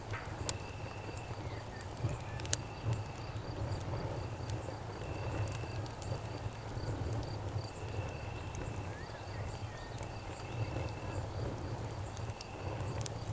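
Night insects: crickets and cicadas keep up a steady high-pitched drone, with a short chirp repeating every second or two. A few sharp pops of a crackling campfire come through, and a low rumble runs underneath.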